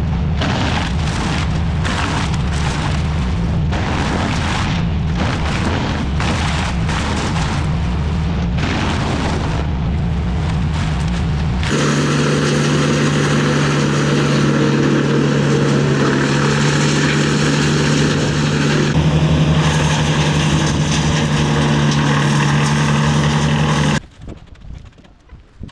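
Loud engine-driven work machinery running, with an uneven, rough texture. About halfway through it switches abruptly to a steadier engine tone, which cuts off suddenly near the end.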